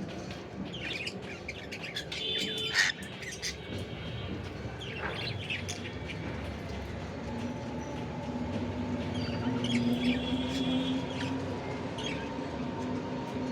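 Cockatiel chirping and squawking in short bursts, three clusters of calls with pauses between.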